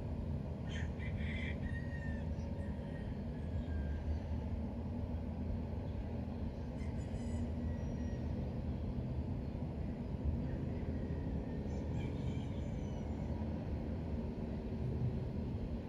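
Steady low background rumble, with short high chirping calls about every five seconds.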